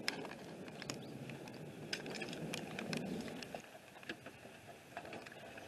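Summer thunderstorm rain falling, with many scattered drops ticking close by over a low, steady rush.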